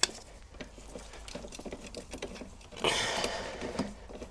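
Small clicks and taps of new bolts and washers being handled and started by hand into an aluminium block, with a sharp click right at the start and a brief louder rustle about three seconds in.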